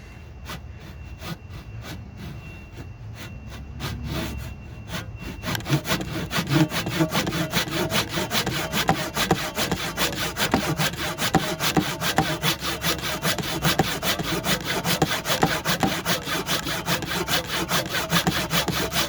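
Handsaw cutting through a cedar block: a few slower, lighter strokes to start the kerf, then about five seconds in it settles into fast, steady back-and-forth strokes.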